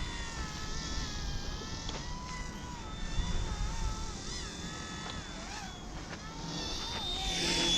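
Micro RC helicopter's electric motor and rotors whining, the pitch wavering up and down as the throttle is worked against gusty wind, getting louder near the end as it comes close. Wind rumbles on the microphone underneath.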